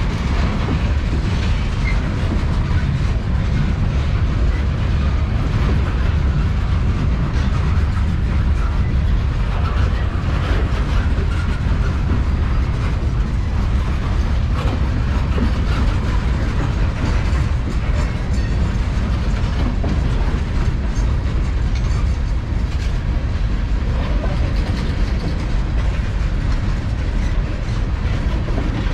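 Cars of a long manifest freight train rolling past: a steady, loud rumble of steel wheels on rail with scattered clicking from wheels crossing rail joints.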